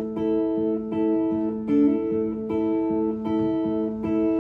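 Acoustic guitar strummed in a steady rhythm, a chord struck about twice a second, with no voice.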